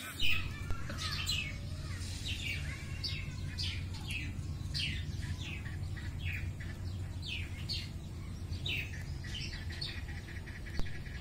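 Birds chirping: a steady stream of short, quick, downward-sweeping chirps, several overlapping, over a steady low hum. A sharp click just after the start is the loudest moment.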